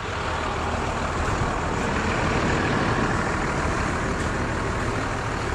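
Parked truck's engine idling: a steady low hum with an even hiss of noise over it.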